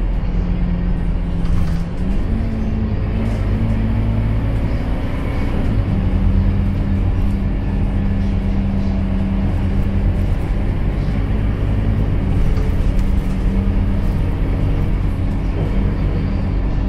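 Scania K230UB bus's nine-litre five-cylinder diesel engine running under way, heard from inside the cabin as a steady drone. The engine note steps up about two seconds in and drops back about four seconds later.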